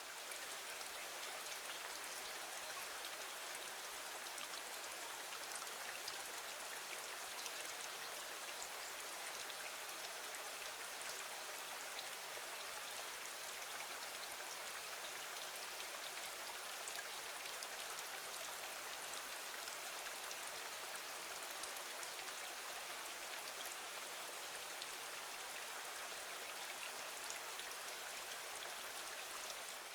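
Steady rain against a window, an even hiss of many small drop ticks that holds level throughout without change.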